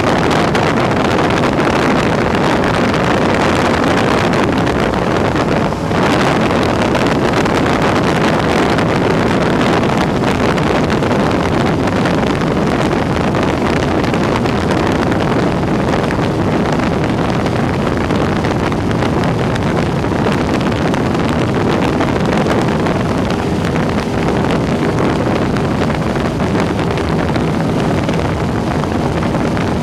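Cessna 172's piston engine and propeller running steadily in flight, heard from inside the cabin as a loud, even drone with wind rush. The level dips briefly about six seconds in.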